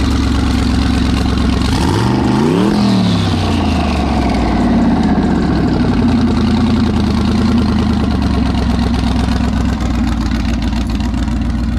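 Twin-turbo car engine idling, its exhaust exiting out through the hood. It is revved once about two seconds in, the pitch climbing and then falling back, with a high whine falling away after it. It then settles back to a steady idle.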